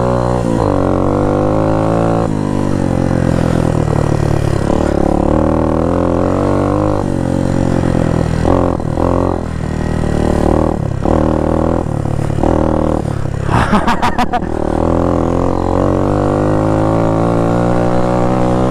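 AJP four-stroke dirt bike engine being ridden, its pitch climbing and falling again and again as the rider opens the throttle, shifts and backs off. A short rattle of knocks comes about two-thirds of the way through.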